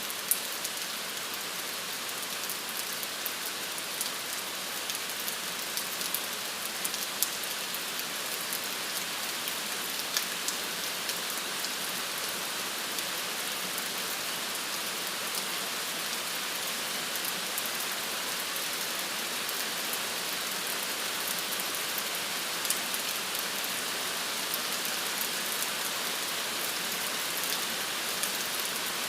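Steady rain falling, a continuous hiss with many individual drops pattering sharply on a surface.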